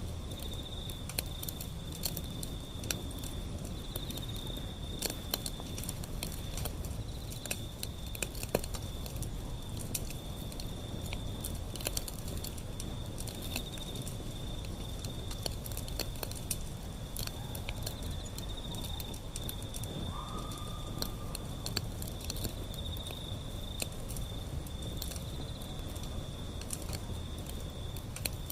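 Wood fire burning, with scattered sharp crackles and pops over a low steady rumble. An insect trills steadily at a high pitch throughout.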